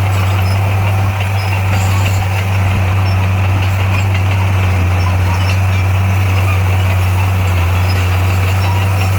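Heavy diesel engine of earthmoving equipment running steadily, its deep note unchanging.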